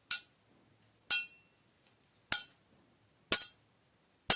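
A small bell-like object struck five times, about once a second; each strike gives a bright ringing tone that dies away quickly, standing in for the sound of church bells.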